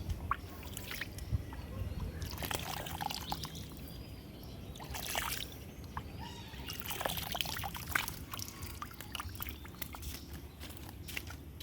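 Water splashing and trickling in a few irregular spells, with small clicks in between.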